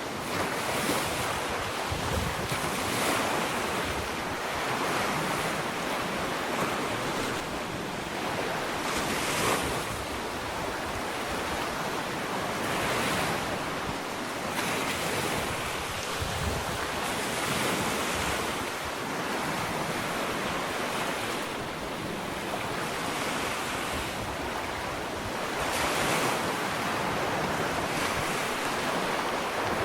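Ocean waves breaking and washing up a sandy beach, a continuous surf hiss that swells every few seconds as each wave comes in.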